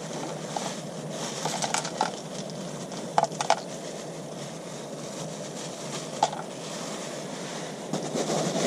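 A steady rushing noise with a few light clicks and knocks: a couple about a second and a half in, two more near three and a half seconds, and one past six seconds.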